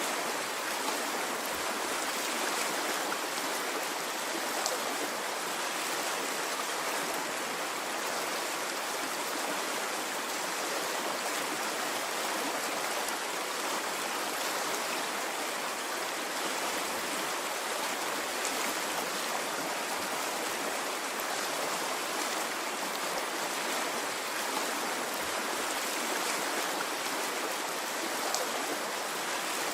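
Stream of running water flowing steadily, an even rushing sound with a few faint clicks.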